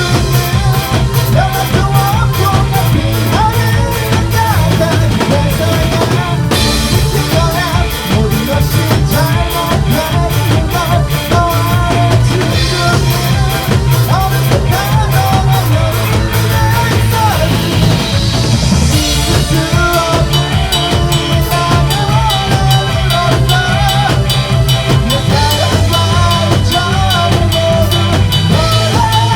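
Live electronic rock band playing, with a drum kit keeping a steady beat under a wavering lead melody.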